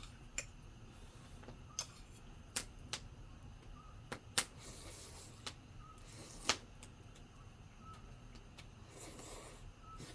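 Wood campfire crackling: irregular sharp pops and snaps, a few of them loud, with short soft hisses in between.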